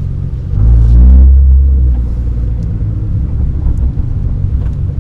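Nissan GT-R R35's twin-turbo V6 engine pulling hard: its note rises and swells about half a second in, then eases back after a second or so to a steady low drone while driving.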